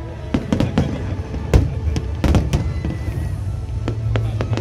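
Aerial fireworks shells bursting in a rapid, irregular string of sharp bangs, the loudest about a second and a half in.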